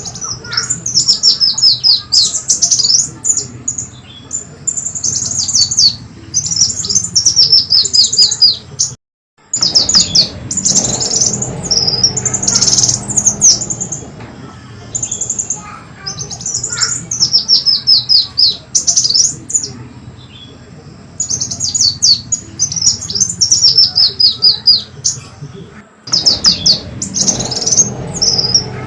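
Recorded song of the kolibri wulung (brown-throated sunbird), played as a lure call. It comes as loud bursts of rapid, high, falling chips and trills, phrase after phrase, with a low hum underneath. The recording cuts out briefly twice, about nine seconds in and again near twenty-six seconds, as the loop restarts.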